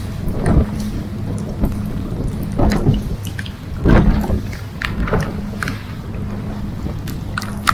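Boat engine running with a steady low hum, while gusts of wind rush over the microphone several times.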